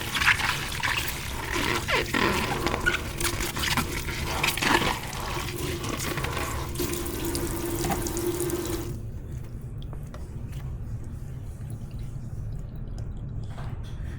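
Kitchen tap running into a sink while dishes are rinsed, with scattered clinks. The water is shut off suddenly about nine seconds in, leaving a steady low hum and a few faint drips.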